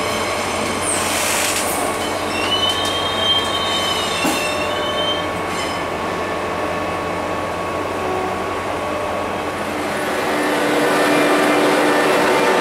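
Train running on rails with steady rolling noise; a high-pitched wheel squeal sounds for about three seconds near the start, and the rumble grows louder toward the end.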